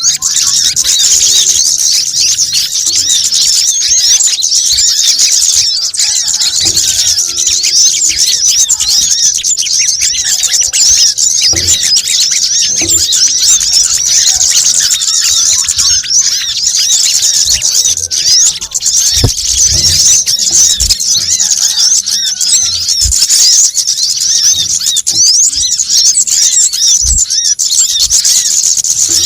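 Dense, continuous high-pitched chattering and twittering of many small birds layered together, a 'noisy' bird-lure track for sunbirds such as the brown-throated sunbird (kolibri kelapa). The rapid squeaky notes run on without a break.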